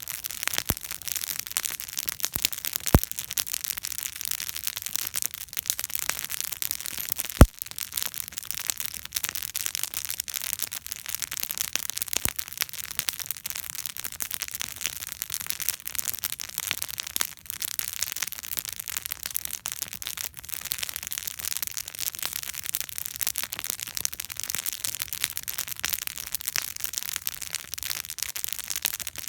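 Wood campfire burning with a steady, dense crackle and frequent sharp pops; two louder pops come about three and seven seconds in.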